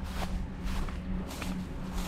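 Footsteps at a steady walking pace, about two steps a second, over a steady low hum.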